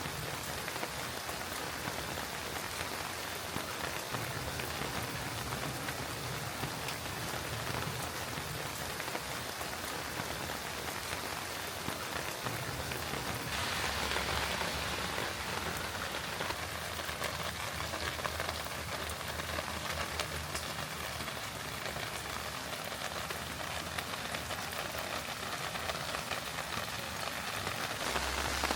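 Steady rain falling, with a fine patter of drops on a hard surface. It is a little heavier for a couple of seconds about halfway through.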